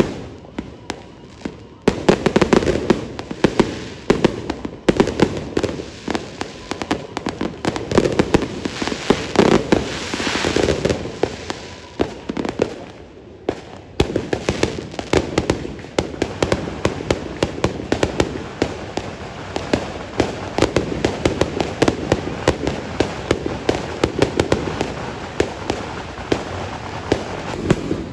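Fireworks going off overhead: a dense run of rapid, overlapping bangs and crackles, with a short lull about halfway through.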